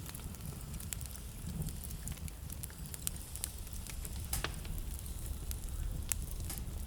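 Wood fire burning in a fireplace, crackling steadily with a few sharper pops, over a low steady rumble.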